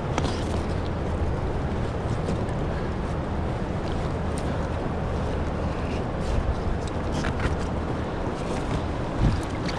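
Steady rush of moving river water and wind noise on the microphone around a kayak, with a few light splashes.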